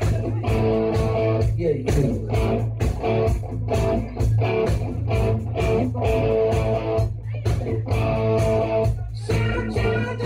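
Rock music: electric guitar chords played in short, repeated stabs over a steady bass line.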